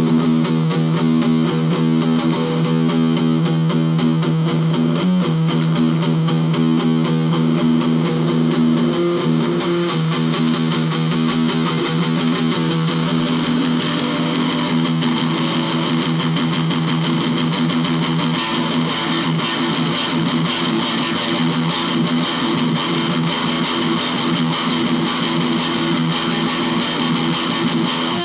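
Distorted electric guitar playing an improvised piece, with notes and chords sustained and ringing continuously.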